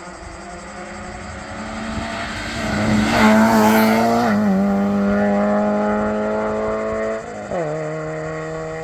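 Modern rally car passing at speed on a stage, engine held at high revs and loudest as it goes by, its pitch falling as it passes. Near the end the engine briefly cuts and drops in pitch at a gear change, then pulls away steadily.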